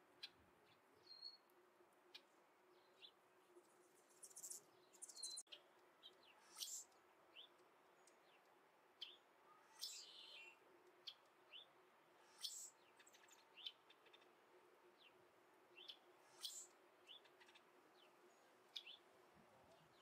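Faint, irregular high-pitched bird chirps and short ticks, a handful every few seconds, over a low steady hum.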